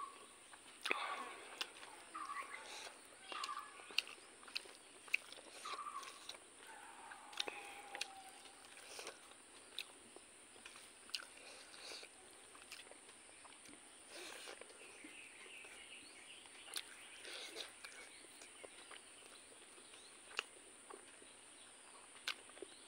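Close-up mouth sounds of eating rice and pork curry by hand: chewing, lip smacks and sharp little clicks. During the first several seconds a bird calls in short repeated notes, about one a second.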